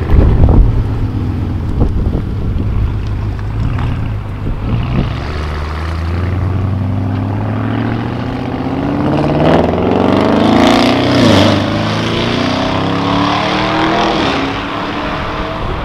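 Audi RS4 Avant engine accelerating hard away, its note rising in pitch through one gear, dropping sharply at a gear change about eleven seconds in, then rising again before fading into the distance. It opens with a loud low rumble from an Audi RS6 Avant passing close by.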